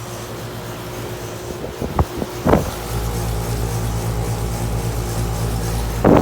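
Steady electrical hum of several central air conditioner outdoor units running. A deeper low rumble joins about three seconds in, with a couple of short knocks just before it and a louder burst at the very end.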